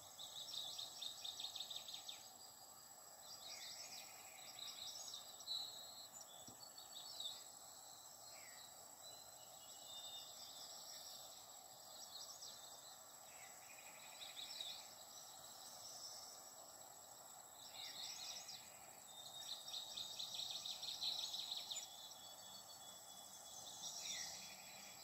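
Faint bird song: short bursts of fast, high chirps and trills recurring every few seconds, over a steady faint high-pitched tone and low background hiss.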